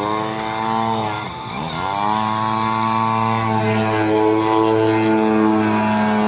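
Radio-controlled model airplane's engine and propeller running at high revs. The pitch dips sharply and climbs back about a second and a half in, then holds steady.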